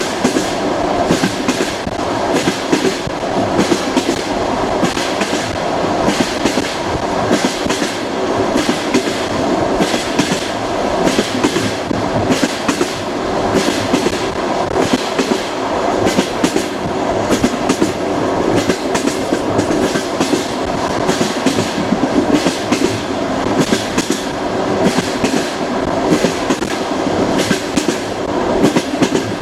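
Train wheels clattering over rail joints while running, repeated sharp clicks over a steady rumble.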